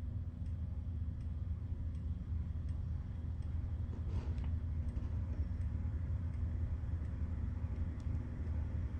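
Harbor Breeze Classic Style 52-inch ceiling fan running, with a steady low motor hum and faint regular ticks about every two-thirds of a second.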